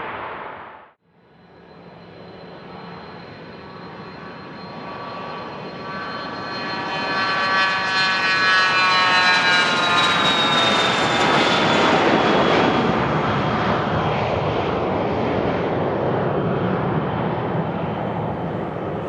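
Business jet's turbofan engines passing by on the runway: a whining roar that builds, its high whine falling in pitch as the jet goes past, then easing off.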